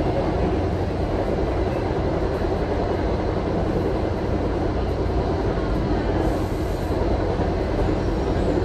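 Steady rumble of an MBTA commuter rail passenger coach running at speed, heard from inside the car: wheels on the rails and running gear, with no distinct clicks or squeals.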